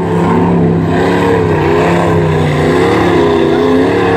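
Ford pickup truck's engine running loud and steady, its pitch wavering slightly up and down as the throttle changes.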